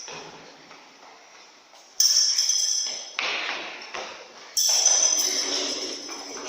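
Three sudden sharp hits, about two seconds in, a second later and about four and a half seconds in, each followed by a high ringing that fades.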